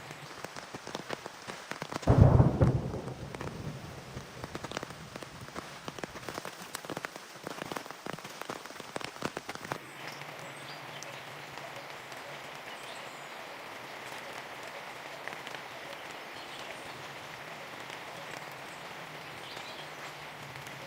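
Rain falling, with a short deep clap of thunder about two seconds in. Drops tick sharply and irregularly for several seconds, then about ten seconds in the sound turns to an even, steady rain.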